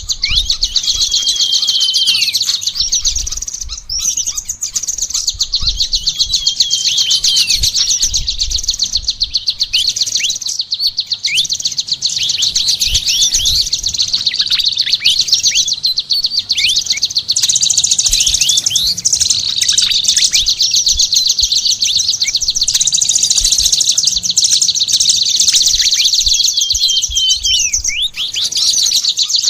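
Songbirds singing: a dense, very fast trill with sharp falling whistle notes laid over it again and again, bird-song material of the kind used for training caged songbirds.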